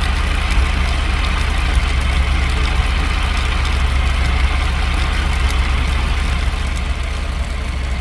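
Motorcycle engine running at a steady idle.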